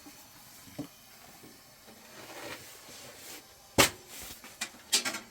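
A few sharp knocks and clatters, the loudest nearly four seconds in and a quick cluster about five seconds in, with a soft rustle a little before them.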